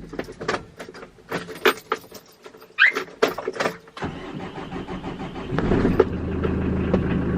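Clicks and knocks in the truck's cab, then about four seconds in the truck's engine is started: it turns over briefly and catches around six seconds in, settling into a steady idle.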